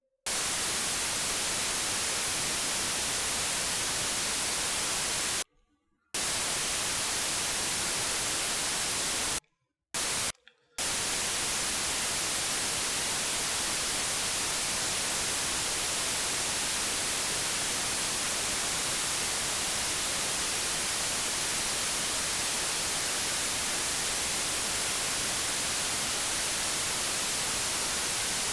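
Loud, steady white-noise static hiss. It cuts out abruptly to silence about five and a half seconds in for half a second, and twice more briefly around ten seconds.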